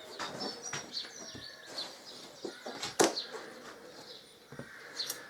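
Small birds chirping in the background while metal parts are handled as a screen mounting bracket is taken off, with scattered light clicks and one sharp click about three seconds in.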